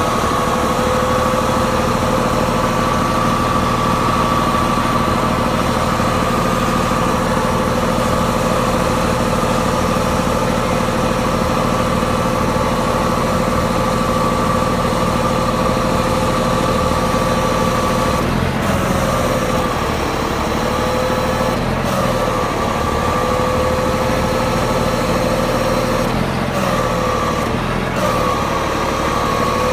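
Roll-off truck's engine idling steadily with a steady whine; the pitch dips briefly and recovers several times in the last third, as if under momentary load.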